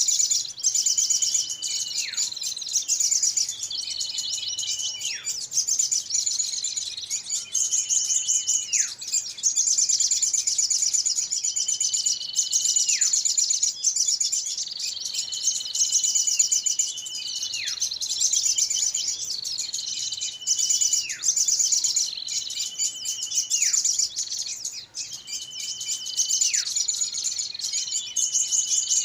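Bird-lure recording of a noisy chorus of small birds: a dense, high chatter of rapid chips, over which a call repeats every two seconds or so, a held whistle that drops sharply in pitch at its end.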